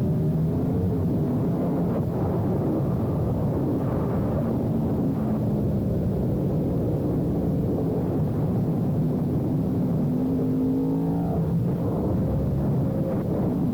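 Sportbike engine running at speed along a winding road, its pitch rising and falling as the throttle opens and closes.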